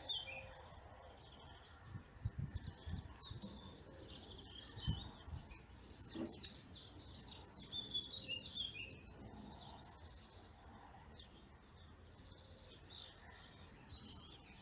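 Faint birds chirping and singing, with a few soft low thuds.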